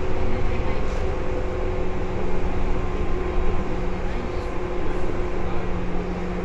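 Seibu 2000-series electric train running, heard inside the car above the underfloor line breaker: a steady rumble of wheels on the track with a constant low electrical hum.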